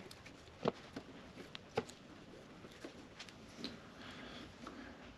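Faint, irregular light clicks and ticks of metal hand tools being handled, about six sharp clicks spread over a few seconds.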